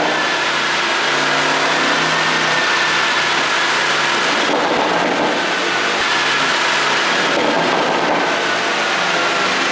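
Porsche Panamera Turbo's twin-turbo V8 running steadily under way, mixed with continuous road and wind noise. The engine note drifts slowly lower, and no distinct exhaust pops stand out.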